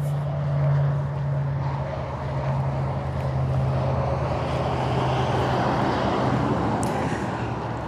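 A motor vehicle running nearby: a steady low engine hum with road noise that grows louder through the middle and eases off near the end.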